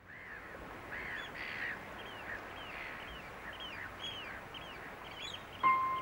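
Birds calling, many short arched calls repeating and overlapping after a quick fade-in. Music with steady held notes comes in near the end.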